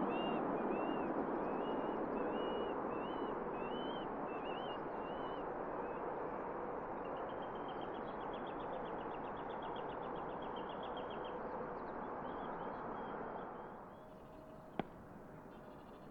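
Steady jet aircraft noise slowly fading away, with a small songbird singing repeated short chirps and then a rapid trill above it. The jet noise stops abruptly about thirteen seconds in, leaving quieter background with a single sharp click near the end.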